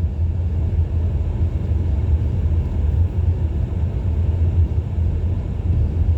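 Car driving at a steady pace: a constant low drone of engine and road noise, heard from inside the cabin.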